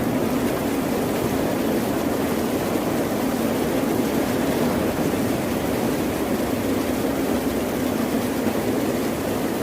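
A steady, even rush of water noise, strongest in the low-middle range, with no separate wave breaks or impacts.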